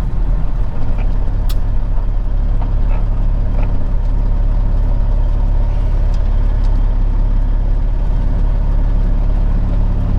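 Peterbilt 379 semi truck's diesel engine running steadily at low revs, with a few light ticks and rattles over it.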